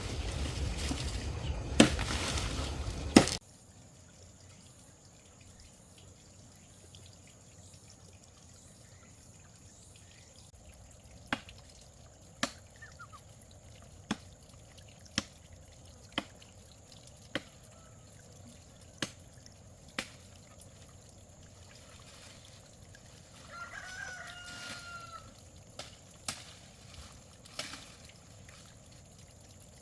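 A loud rushing noise stops abruptly early on. It is followed by quiet with a run of sharp knocks, about one a second, and a rooster crowing briefly about three-quarters of the way through.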